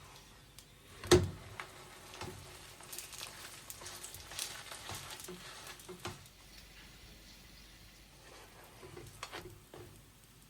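Kitchen sounds: food sizzling in a pan with light utensil clicks, and a single sharp knock about a second in that is the loudest sound.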